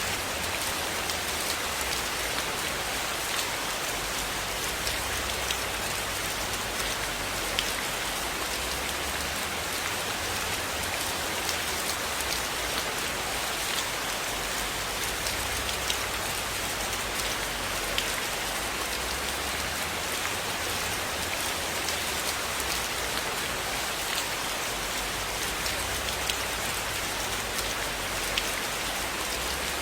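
Steady rain falling on a surface, a dense even hiss with scattered sharp drop ticks.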